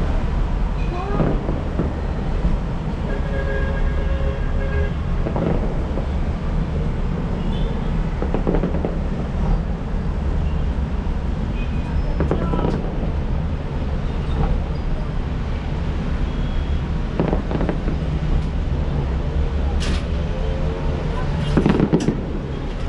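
Steady low rumble of city traffic, with scattered short horn-like tones and a few sharp cracks near the end.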